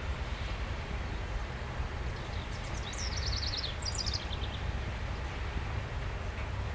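Steady low rumble of a long freight train passing. About halfway through, a songbird sings a quick run of high, falling notes.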